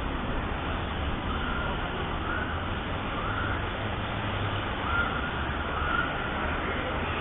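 Steady low rumble of traffic noise, with several brief, faint wavering whines over it.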